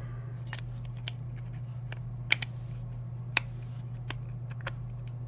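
Small, light clicks and taps from handling sunglasses: the plastic frame, replacement lens and tiny star key. Two sharper clicks come near the middle, over a steady low hum.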